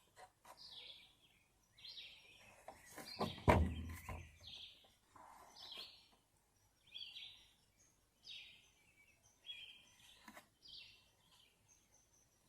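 A bird calling over and over, a short chirp roughly once a second. About three and a half seconds in comes a loud knock among some clicking handling noises, and there is a single click near the end.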